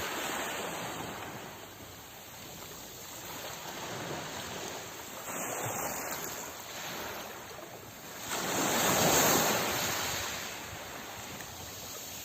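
Sea waves washing in and falling back, a steady hiss that swells and fades; the biggest wave breaks about eight seconds in and dies away over two seconds.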